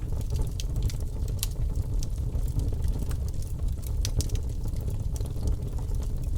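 Bonfire burning: a constant low rumble with frequent sharp crackles and pops.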